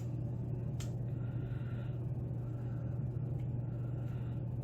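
Steady low hum in the background, with a single sharp metallic tick about a second in and another near the end, from a lock pick working the pins of a pin-tumbler lock under tension.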